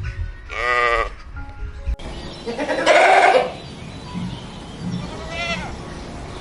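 Bleating livestock, sheep or goats: one call just under a second in, a louder, longer bleat about three seconds in, and a short one near the end.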